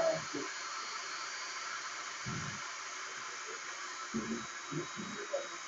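Steady hiss, with a few faint, short low sounds about two seconds in and again past the middle.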